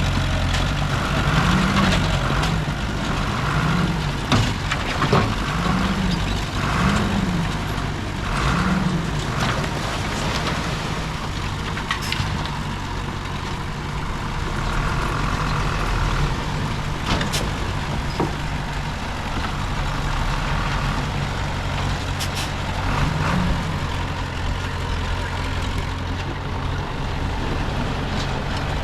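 Heavy diesel engines of earthmoving machines running, a bulldozer and dump trucks, with the engine note rising and falling several times in the first nine seconds and once more near the end. Sharp metallic clanks break in now and then.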